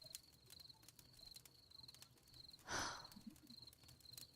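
Faint night ambience of crickets chirping in short, evenly repeated trills, with a single soft rush of noise about two-thirds of the way through.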